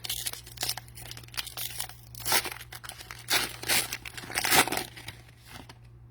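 Cellophane wrapper of a trading-card cello pack being torn open and crinkled by hand, in irregular rustling crackles that die away near the end.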